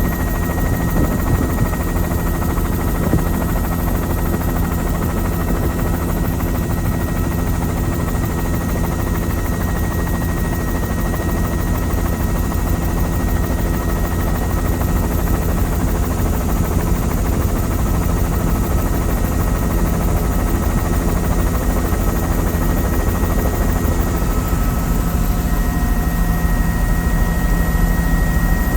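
Helicopter in flight heard from on board: steady rotor and engine noise with a heavy low drone and a few faint steady whining tones. The tones shift slightly near the end.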